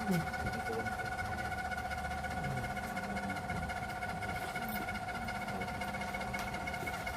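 A small motor or engine running steadily: an even low rumble under a constant high-pitched whine, unchanged throughout.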